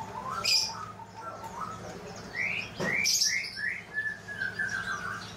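Small birds chirping: a quick run of short rising chirps, then a falling series of notes. A couple of sharp clicks and a low steady hum sit underneath.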